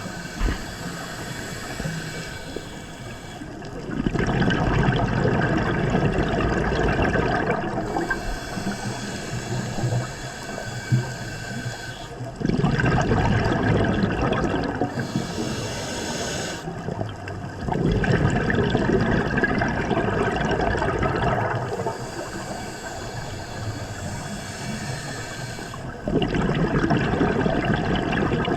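A scuba diver breathing through a regulator underwater: a high hiss on each inhale, then a louder bubbling rumble of exhaled air. Four slow breaths in a steady rhythm.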